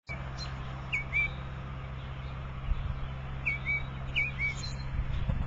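A small bird chirping: short two-note chirps, once about a second in and twice more near the end, over a steady low hum.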